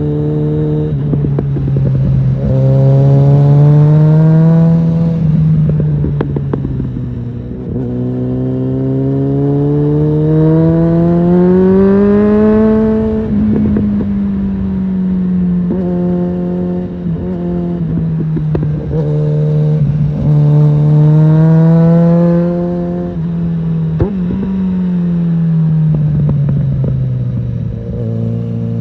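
Suzuki GSF650 Bandit inline-four with a Storm aftermarket exhaust under way, its pitch repeatedly climbing as it accelerates and sinking back as it eases off. There is a long climb around the middle and a slow fall toward the end.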